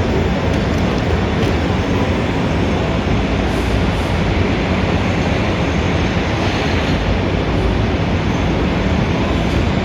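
Steady city street traffic noise: a dense, continuous low rumble with hiss above it and no single event standing out.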